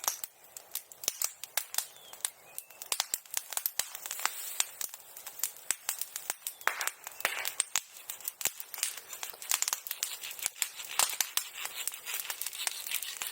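Bonfire crackling and popping: a quick, irregular run of sharp snaps and cracks from burning wood.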